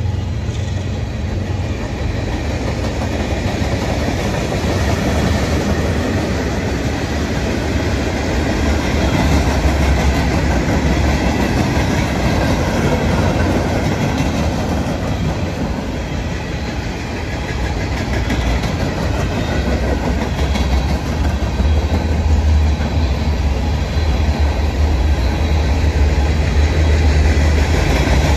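A train running by: a loud, continuous rumble with strong low bass. It swells about a third of the way in, eases briefly past the middle, and grows loud again near the end.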